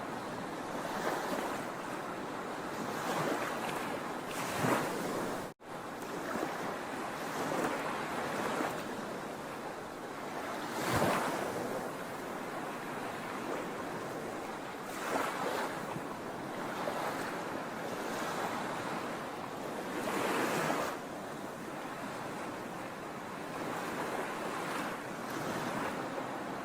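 Sea waves washing onto the shore: a steady surf hiss with louder surges as waves break, about every four to six seconds. The sound cuts out for an instant about five and a half seconds in.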